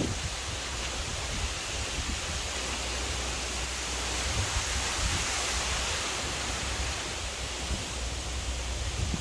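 Strong wind blowing and buffeting the microphone: a steady rushing noise with a deep rumble underneath, swelling as a gust about halfway through.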